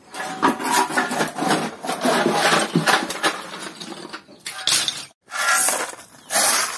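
Pieces of broken brick clattering and scraping as they are tossed into a fireplace base to fill it, with repeated chinking impacts and a short break about five seconds in.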